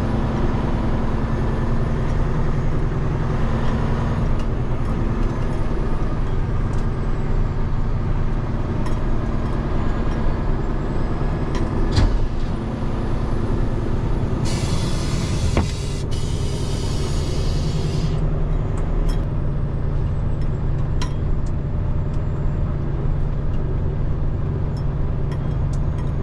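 Diesel engine of a Peterbilt 589 dump truck running steadily under way, with a few clicks and a hiss of air lasting about three seconds a little past halfway.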